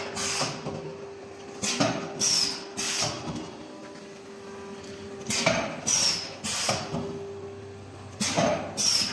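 Veneer patching machine cycling: groups of three quick strokes, about half a second apart, repeat roughly every three and a half seconds over a steady machine hum.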